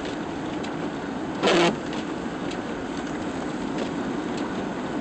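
A car driving on a snow-covered road, with steady engine and road noise heard from inside the cabin. A brief, louder swish cuts through about one and a half seconds in.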